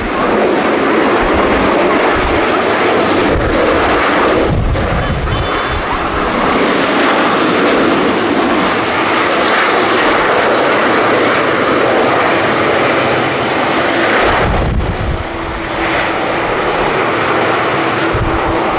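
Jet airliner engines running loud and steady, with gusts of wind buffeting the microphone; a steady low hum joins in about fifteen seconds in.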